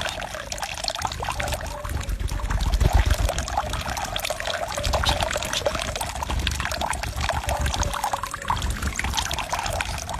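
Running water, splashing and trickling steadily.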